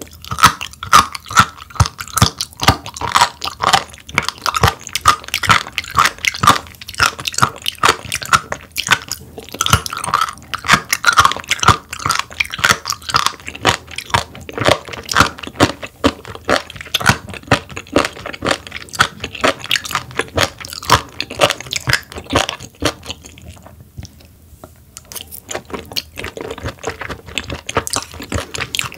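Close-miked chewing of raw sturgeon: a steady stream of rapid, crisp mouth clicks, with a pause of about two seconds near the end.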